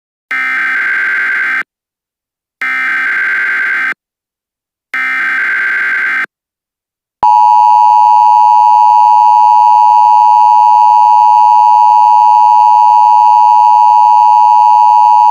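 Emergency Alert System signal: three short bursts of SAME digital header data, each about a second and a half long with a second's gap between them, encoding the alert. About seven seconds in, the loud steady two-tone EAS attention signal begins and holds, announcing that an emergency message follows.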